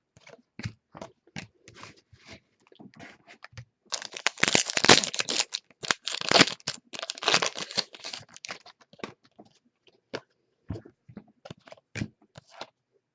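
A trading card pack wrapper being torn open and crinkled, loudest and most continuous from about four seconds in to past eight seconds. Scattered short clicks of cards being handled come before and after it.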